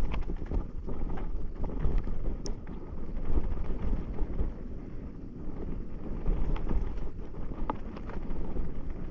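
Wind buffeting the microphone: a fluctuating low rumble that rises and falls in gusts, with a few faint scattered clicks.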